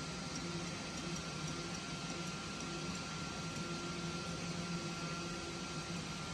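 CNC leather cutting machine running: a steady mechanical hum and hiss with a faint, steady high whine and a low hum that comes and goes.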